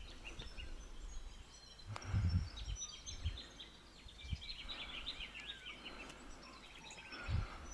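Small birds chirping and twittering in quick runs of short high calls, busiest through the middle, over faint outdoor background noise. A few low thumps, one about two seconds in and one near the end.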